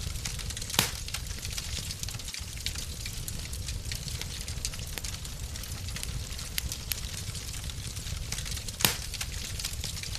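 Wood fire crackling in a fireplace: a steady hiss and low rumble scattered with small crackles, with two louder pops, about a second in and near the end.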